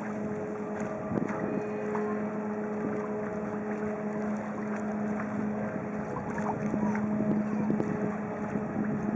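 Paddle-wheel cruise ship Michigan running on its return to port: a steady low hum with scattered short knocks.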